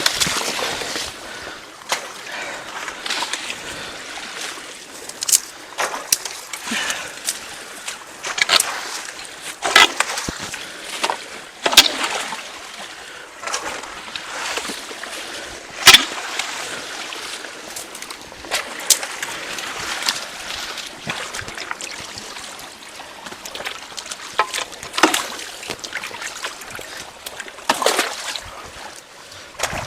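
Creek water splashing and sloshing as debris is pulled out of a clogged culvert by hand, over the steady rush of the stream, with scattered sharp knocks and clicks. The sharpest knock comes about sixteen seconds in.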